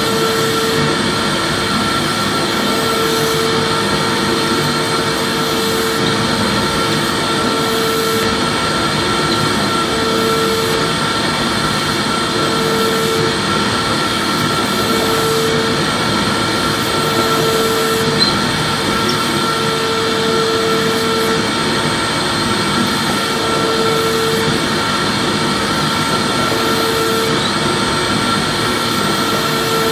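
Vacuum cleaner running steadily: an even rushing hiss with a high motor whine, and a lower hum that swells in and out every two seconds or so.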